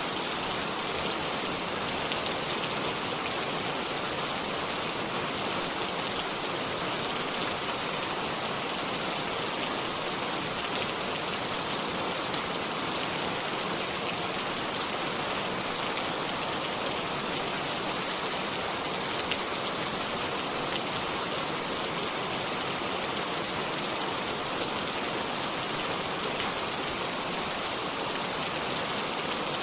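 Steady rainfall on leaves and surfaces: an even hiss of rain with scattered individual drop taps, no thunder.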